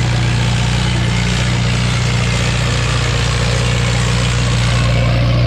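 Antique tractor engine running steadily at a constant pitch.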